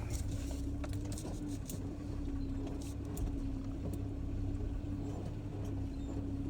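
Ram pickup truck running slowly in reverse, with a low engine rumble and a steady whine, plus a few faint clicks.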